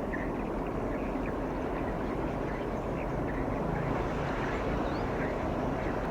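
Steady low rumble of a container ship's engine passing at close range, with faint short bird chirps over it.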